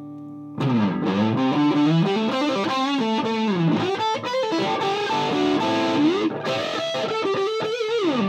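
High-gain distorted electric guitar: a Gibson Les Paul through a Mesa Boogie Dual Rectifier tube amp into a Marshall 4x12 cabinet, set with the bass turned down and the presence raised slightly. A chord rings quietly, then about half a second in a loud lead line with string bends and vibrato begins.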